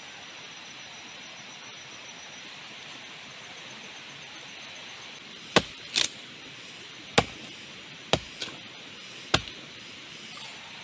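Steady hiss of heavy rain. About halfway through come six sharp knocks or chop-like strikes over about four seconds, the second of them doubled.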